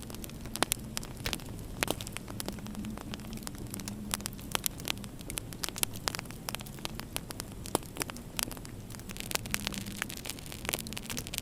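Wood fire crackling in a fireplace: irregular sharp pops and snaps, several a second, over a steady low rushing noise.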